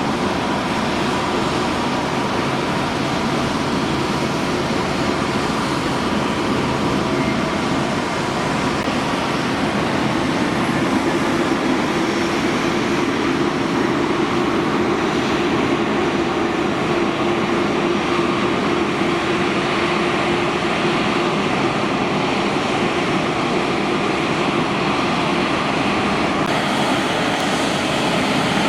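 Jet airliner engines running steadily: a continuous rushing noise with a faint steady whine.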